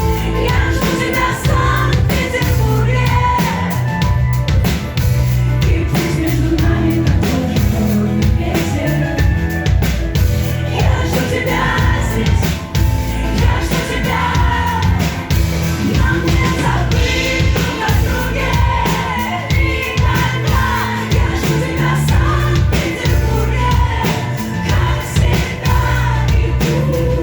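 A live pop-rock song: a singer over a full band, with steady drums under the vocal line.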